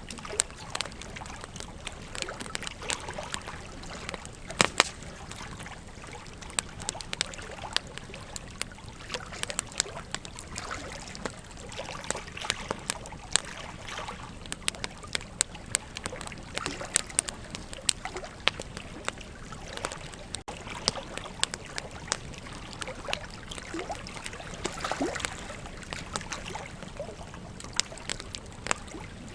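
Wood campfire crackling, with frequent sharp pops and snaps, a loud one about five seconds in, over the steady trickle and rush of a flowing river.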